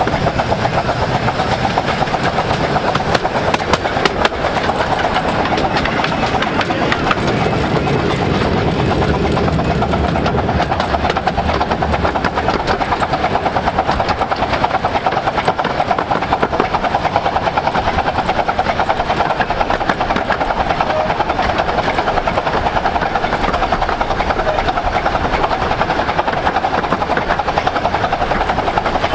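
Train hauled by 15-inch gauge steam locomotive No.5 Hercules running steadily at speed, with a fast, even rhythmic beat.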